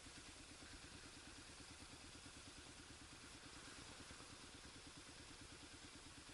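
Faint, steady, even pulsing of a Kawasaki KLR's single-cylinder engine running at low revs.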